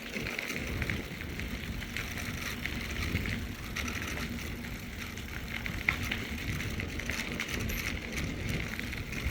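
Mountain bike rolling along a rail trail: steady tyre and riding noise with a fine, even crackle.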